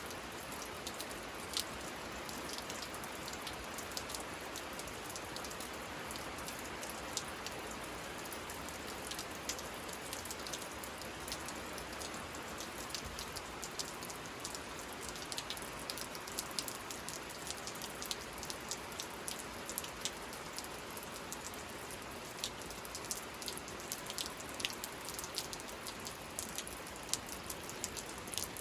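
Steady rain falling, with many single drops ticking sharply and irregularly close by.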